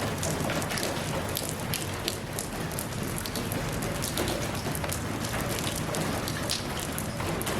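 Steady rain falling on a surface: an even hiss with many separate drops pattering through it.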